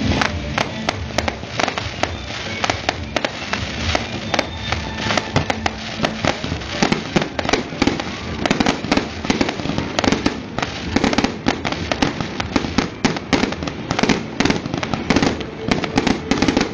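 Fireworks going off in rapid succession: a dense run of bangs and crackles that thickens in the second half. Music plays underneath.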